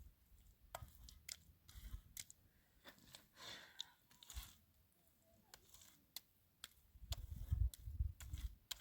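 Scattered light clicks and taps with some rustling, then a run of low thuds near the end.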